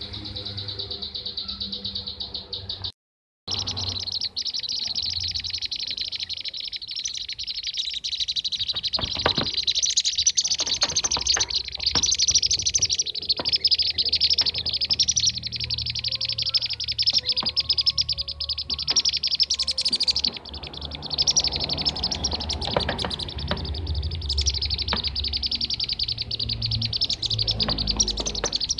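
A recording of bee-eaters (kirik-kirik) calling: a dense, unbroken stream of rapid, high chirping trills, used as a lure sound to attract the birds. It cuts out completely for a moment about three seconds in.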